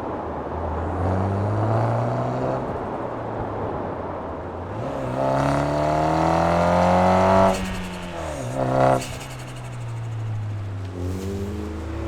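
MINI Clubman Cooper S engine heard through a Scorpion GPF-back exhaust with a GPF-delete section, pulling hard with rising pitch from about five seconds in. The revs drop sharply as the throttle lifts, there is a short sharp burst a second later, and the engine pulls up again near the end.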